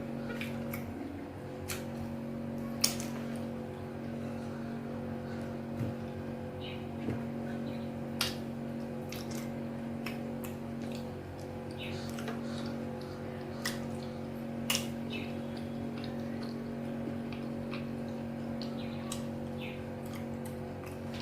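Close-up mukbang eating sounds of amala with ewedu and egusi soup: scattered wet squishes, smacks and chewing clicks, over a steady low hum.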